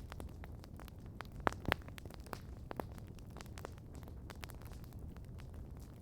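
Wood campfire crackling: irregular sharp pops and ticks, the two loudest about a second and a half in, over a low steady rumble.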